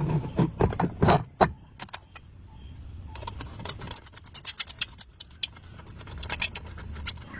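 Metal tools and small metal parts clinking and knocking against each other, with a few heavier knocks at first and then a quick run of light clinks.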